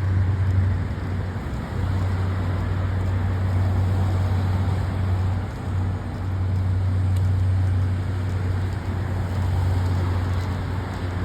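Low, steady drone of a vehicle engine running, with road traffic noise around it; the drone dips briefly twice.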